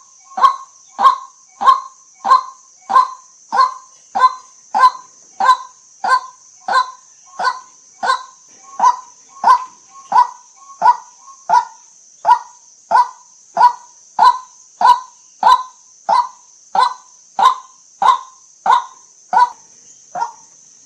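White-breasted waterhen giving its repeated 'kwak' call over and over, one loud short note roughly every two-thirds of a second at a steady even rhythm.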